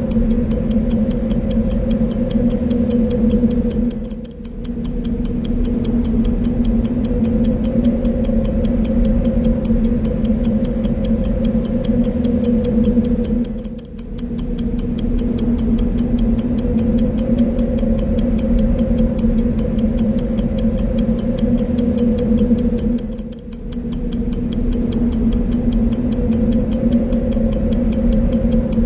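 Clock ticking in a steady, even rhythm over a continuous wind sound. The wind dips briefly about every nine to ten seconds, three times here.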